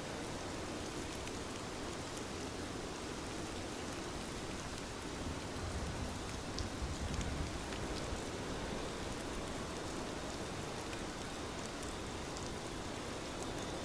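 Steady rain, with faint scattered drop ticks and a slight low swell around the middle.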